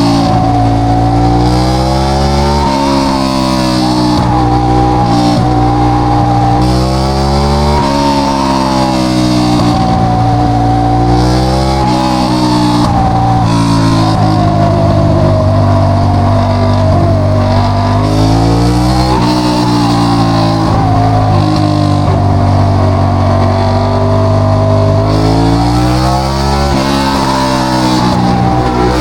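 Ducati Diavel 1200's straight-piped L-twin engine accelerating hard, its pitch climbing and dropping back again and again as it runs up through the gears. Rock music plays underneath.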